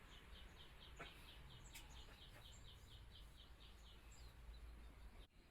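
Faint small bird chirping rapidly, about five short high chirps a second, which stop about two-thirds of the way through, over a low background rumble.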